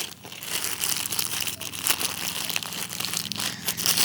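Plastic raincoat packaging crinkling continuously as it is handled and pulled open, with a run of irregular crackles.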